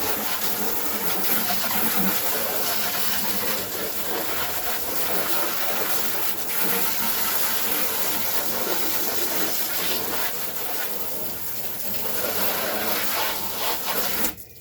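Garden hose spraying water into the hollow plastic hull of a kayak to flush out gravel: a steady loud rush of water that cuts off suddenly near the end.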